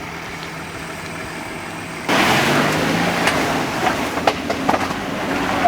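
Toyota 300 Series Land Cruiser's 3.3-litre twin-turbo V6 diesel running quietly, then about two seconds in the sound jumps suddenly louder: the engine under load with scattered knocks and clatter as the vehicle works up a rough rainforest track obstacle.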